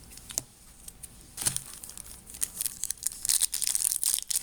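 Foil wrapper of a Topps Chrome trading card pack being crinkled and torn open. There is a light click early, then rustling that turns into dense crackling in the last second or so.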